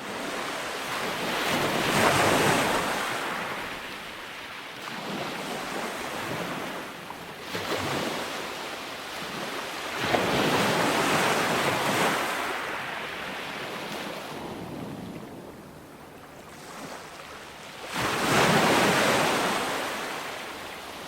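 Calm ocean waves breaking and washing up a sandy beach, a wave swelling and fading about every eight seconds, three times.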